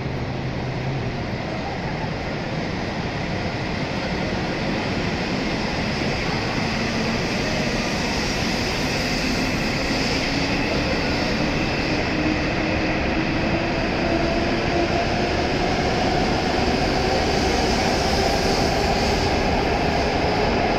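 W7 series Shinkansen train pulling out and gathering speed alongside the platform. The rumble of its cars grows slowly louder, and a whine from its motors rises steadily in pitch.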